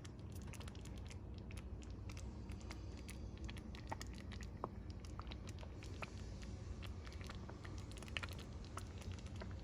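Tomato meat sauce simmering in a pan, a steady scatter of small pops and crackles over a low, even hum.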